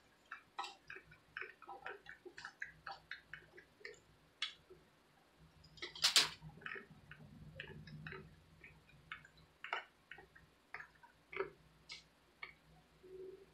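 Close-up chewing of crispy fried ramen noodles, a scatter of small crunches and clicks, with wooden chopsticks clicking and scraping on aluminium foil as she picks the pieces up. One louder crackle about six seconds in.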